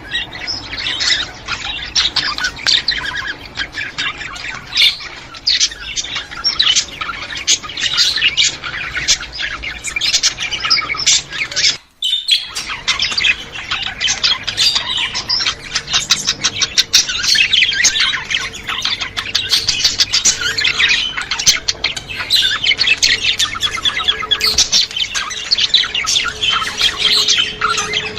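A flock of budgerigars chattering, with dense overlapping chirps, warbles and squawks. The sound breaks off for an instant about twelve seconds in.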